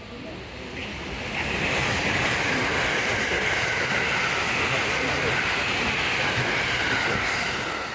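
Electric train moving along the platform: a loud rushing rail noise swells about a second in and holds steady, with a high whine that slowly falls in pitch, then fades near the end.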